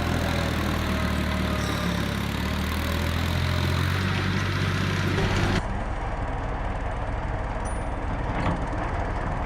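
Tractor engine running steadily with a strong low hum. About halfway through the sound changes abruptly to a fainter, noisier engine sound.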